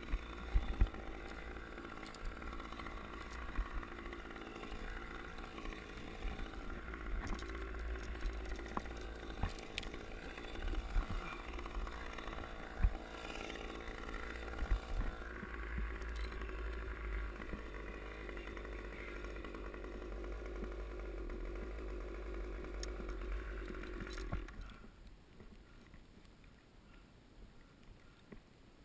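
Chainsaw running steadily, with a low rumble and occasional clicks, then stopping near the end.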